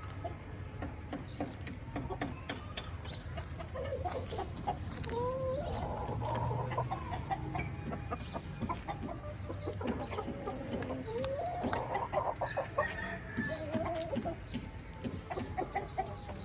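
Young Aseel cockerel calling: two drawn-out calls that rise in pitch and then hold, about six seconds apart, with shorter clucks around them.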